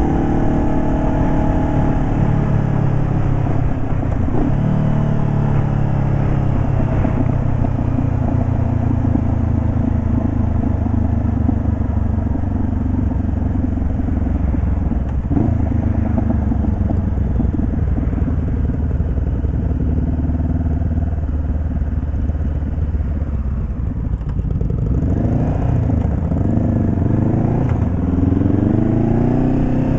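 2018 Honda CBR500R's parallel-twin engine, warm, running through an exhaust with the baffle removed. Its pitch rises and falls as it revs, with a rising run in the last few seconds.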